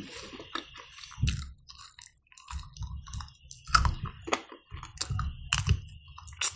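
Close-miked chewing of smoked chicken meat, with irregular sharp mouth clicks and smacks.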